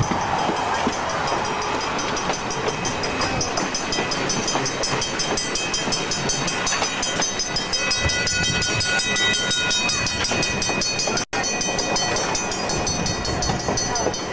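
Passenger train car rolling along the track, a steady rumble and clatter of wheels on rails, with thin high squealing tones in the second half.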